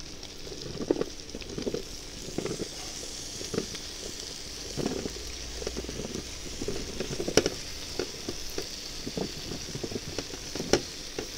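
Raw potato chunks dropped one after another into a hot kazan of frying sausages and vegetables, each landing with a soft irregular knock over a steady sizzle, with two louder knocks near the end.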